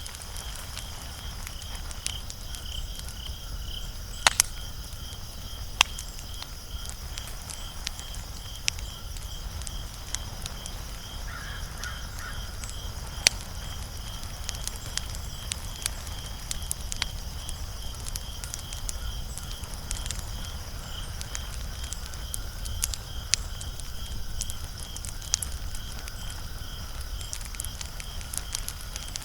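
Wood fire crackling, with sharp pops every second or two over a low steady rumble. A steady, high, rapidly pulsing chirp runs behind it.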